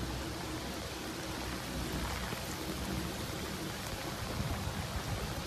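Heavy tropical-storm rain pouring steadily onto open harbour water, a dense even hiss with a low rumble underneath.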